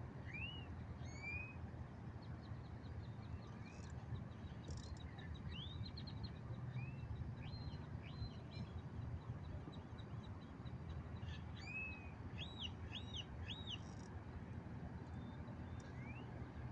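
Small birds chirping, with short arching whistled calls and a fast, even high trill, over a low steady rumble. Near the end comes a quick run of three similar calls.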